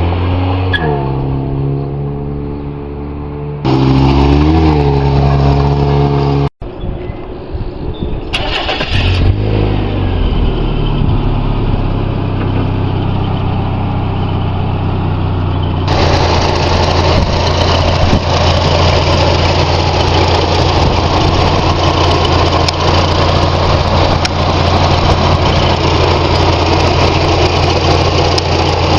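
1991 Mazda Miata's 16-valve four-cylinder engine revving briefly in the first few seconds, then, after an abrupt cut, running steadily and louder from about halfway through.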